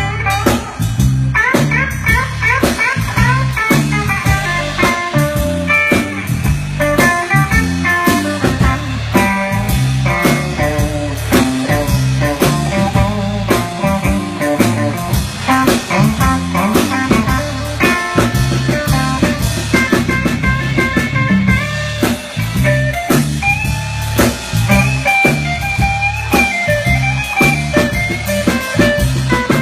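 Blues band playing an instrumental break: a guitar lead over drum kit and a steady rhythm section, with no singing.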